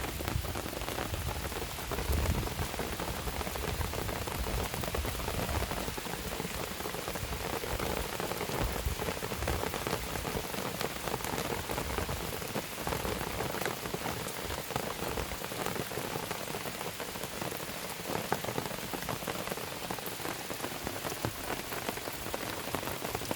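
Steady rain falling, with many small drops striking a nearby surface.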